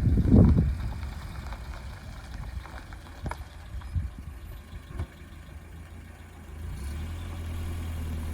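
Engine of a 1987 Nissan pickup: a loud low rumble in the first second, a quieter stretch with a few sharp clicks, then from about seven seconds a steady idle.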